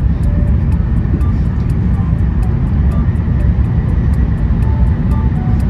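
Cabin noise inside an E7 series Shinkansen as it accelerates through about 200 km/h: a loud, steady rumble. Background music with a light ticking beat plays over it.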